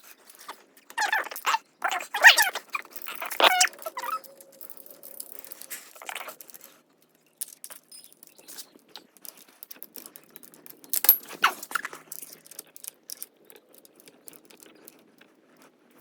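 A dog whining and yelping in short bursts, about one to four seconds in and again around eleven seconds in, with faint scattered clicks between.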